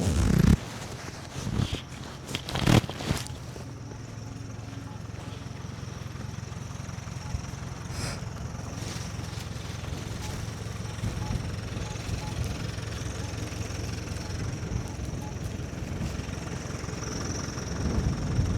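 A few heavy thumps in the first three seconds, then the steady low rumble of a vehicle's engine, slowly growing louder toward the end.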